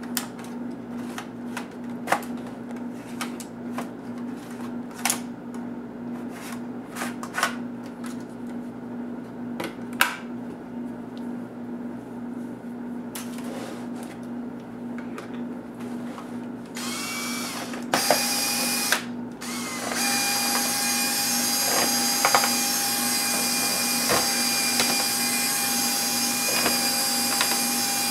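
Sharp scattered clicks of small tools and hard parts being handled during a laptop disassembly, over a steady low hum. About two-thirds of the way in, a small electric motor starts, stops briefly, then runs steadily with a whine.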